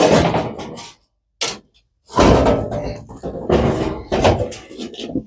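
A loose sheet-metal floor pan being lifted out of a pickup truck's floor, clunking and scraping against the surrounding floor metal in several bursts.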